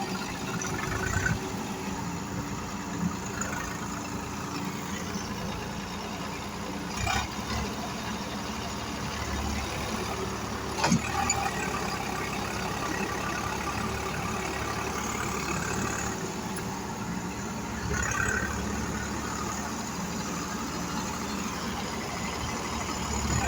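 Diesel tractor engines running steadily, with a couple of sharp knocks about a third and halfway through.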